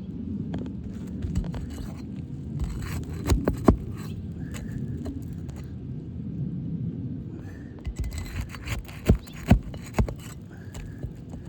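A crowbar scraping and prying under asphalt roof shingles to work them loose, with sharp knocks twice, about three and a half seconds in, and three more between nine and ten seconds in. A low steady rumble runs underneath.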